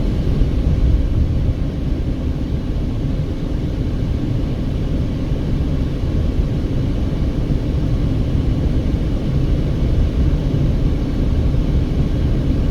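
A car driving up a steep grade, with a steady low rumble of engine and road noise.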